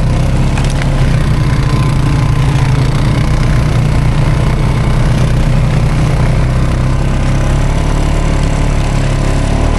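ATV engine running at a steady pace while the quad drives through snow.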